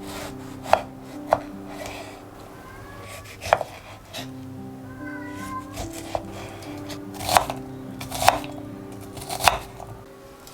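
Unhurried knife chops on a cutting board: about seven sharp knocks, irregularly spaced roughly a second apart, over soft background music.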